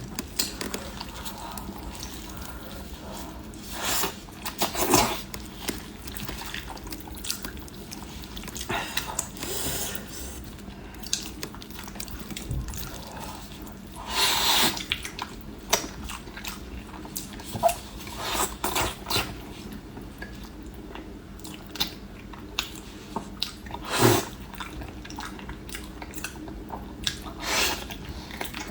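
Close-up eating sounds of a person biting and chewing fatty pork knuckle, with wet mouth clicks and smacks coming at irregular intervals.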